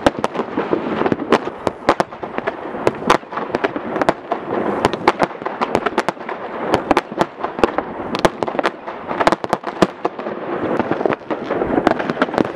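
Many fireworks going off at once: sharp bangs at an irregular pace of several a second over a continuous background of more distant explosions.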